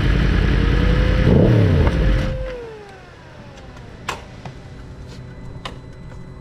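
A BMW sport motorcycle's inline-four engine running loudly and revving briefly about a second and a half in. About two and a half seconds in the sound falls away with a falling whine, leaving a much quieter running background with a few sharp clicks.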